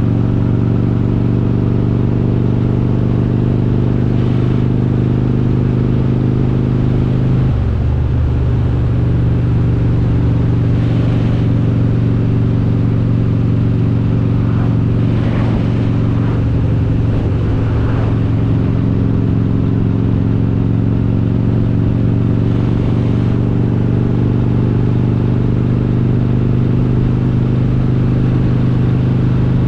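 Harley-Davidson Road King's S&S 95-cubic-inch V-twin with Super Stock heads running steadily under way. The engine note shifts about a quarter of the way in and wavers briefly near the middle before settling again.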